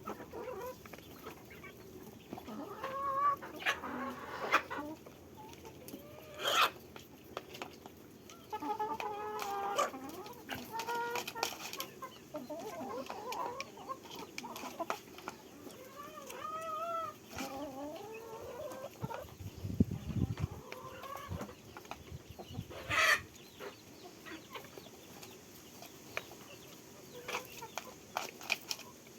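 Chickens clucking while they feed: short, repeated, bending calls, broken by scattered sharp taps and clicks. A brief low rumble comes about two-thirds of the way through.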